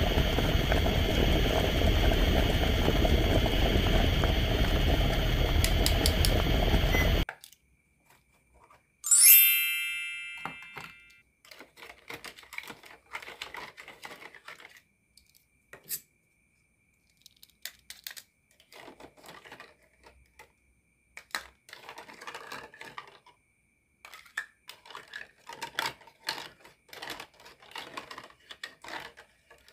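Toy cooking pot's electronic boiling sound effect, a steady bubbling hiss that cuts off suddenly after about seven seconds. About two seconds later a single chime rings out and fades, followed by light clicking and clattering of plastic toy food and utensils.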